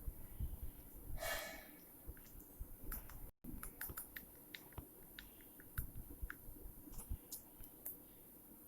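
Scattered small clicks and taps of objects being handled, with a brief rustle about a second in.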